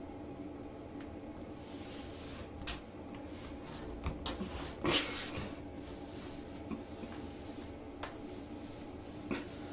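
Scattered light knocks and rubbing sounds over a steady low hum, the loudest knock about five seconds in.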